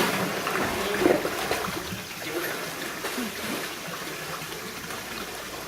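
Water trickling and lapping in a sea lion pool, with faint scattered voices of onlookers.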